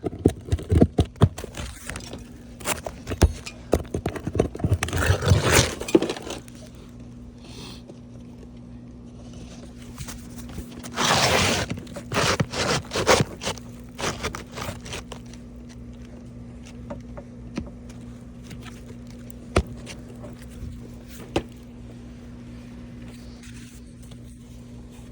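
Asphalt roof shingles scraping and crackling, with sharp clicks and knocks of hand tools, as a replacement shingle is worked in under the course above. The handling is busy for the first several seconds, a louder scrape comes about eleven seconds in, then only scattered clicks.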